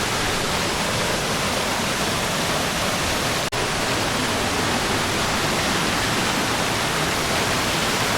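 Waterfall: a steady rush of falling water, broken by an instant's dropout about three and a half seconds in.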